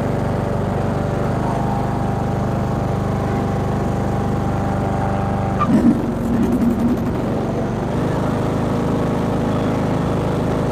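Craftsman riding mower engine running steadily on its replacement carburetor. About halfway through there is a click and a brief change in the engine note, then it settles back to an even run.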